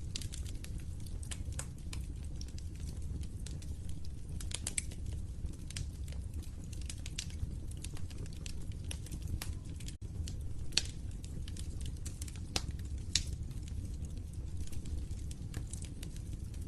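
Wood fire crackling in a fireplace: a steady low rumble of burning with frequent sharp snaps and pops, a few louder pops in the second half.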